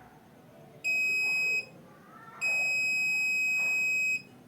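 Electronic buzzer sounding a steady, high-pitched beep twice: a short one about a second in, then a longer one lasting nearly two seconds.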